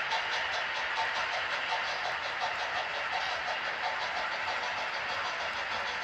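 HO scale model train running on the track: a steady whirring hiss with an even clicking, about five a second.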